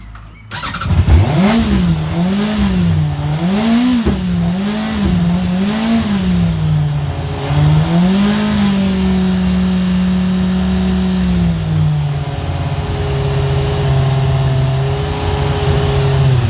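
Yamaha R1's inline-four engine starting about half a second in. It is blipped up and down about five times, then held at raised revs for a few seconds and dropped to a lower, steady idle about twelve seconds in. The engine will only start and keep running with throttle applied and cuts out if the revs drop too far, an electrical or fuelling fault that the owner links to the Power Commander screen.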